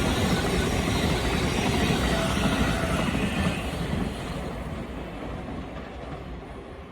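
Passenger train running on the rails, its rumble and rail noise dying away as it moves off.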